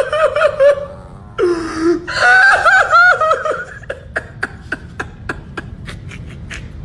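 A person laughing in quick, high-pitched bursts, two runs of it, followed by a series of light clicks, about four a second.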